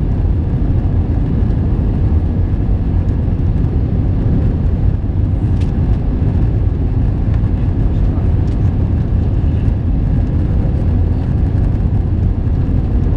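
Steady low rumble inside the cabin of an Airbus A321-231, from its engines and the aircraft's movement, with no marked rise or fall in level.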